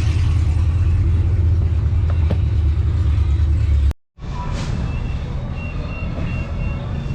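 Mustang V8 exhaust running with a loud, steady, deep rumble that cuts off abruptly about four seconds in. A quieter engine sound then follows, with a run of short high-pitched beeps partway through.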